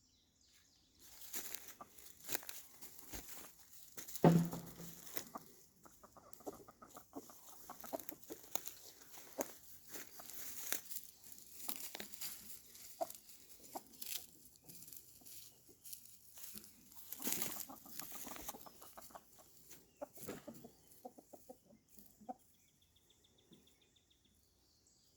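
Chickens clucking, with wing flapping and scuffling clatter and a thump about four seconds in; it quietens near the end.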